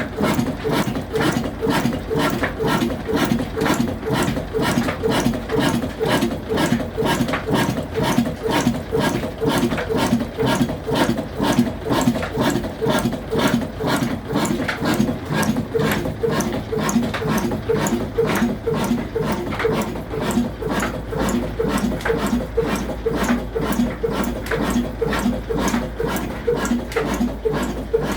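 Black 22 hp Shareef single-cylinder slow-speed diesel engine running steadily at low revs, an even beat of about two to three firing strokes a second with a mechanical clatter over it.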